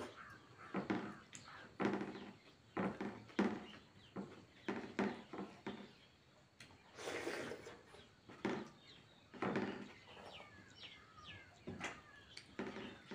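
Close-up mukbang eating sounds: repeated chewing and lip-smacking over a meal of rice and chicken curry, in short separate bursts.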